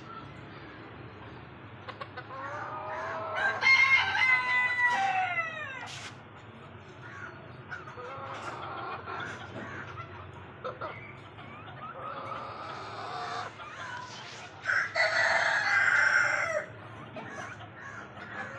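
Chickens calling: a long crow beginning about two seconds in, rising and then falling in pitch over about three seconds, and a second loud call near the end, with softer clucking between.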